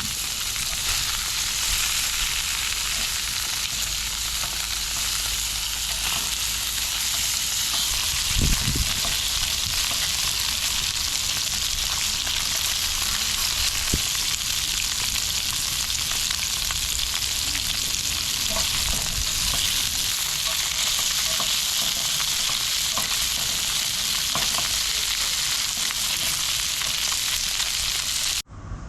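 Food sizzling as it fries in a pan over the heat: a steady, dense hiss that cuts off suddenly near the end.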